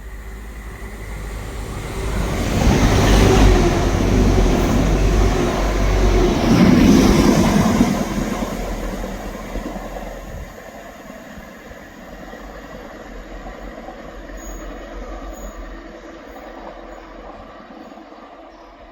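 A train passing on the line: rumble and wheel noise build up, are loudest for about five seconds, then fade away, leaving a lower lingering rumble.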